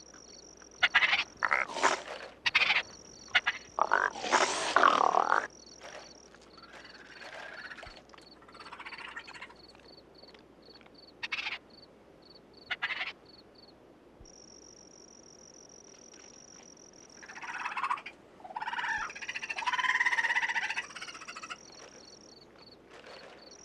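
Raccoons chittering and growling in irregular bursts, loudest in the first few seconds and again late on, over a steady high chirping of night insects.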